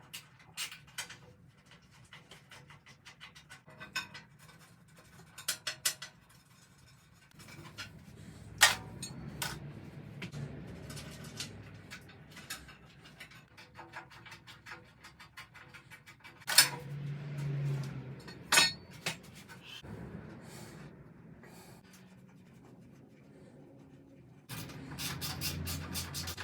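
Scattered metal clinks, knocks and scrapes of hand tools and parts being handled while an old garden tractor is stripped down, with a few sharper knocks. Near the end a faster, evenly spaced run of clicks begins.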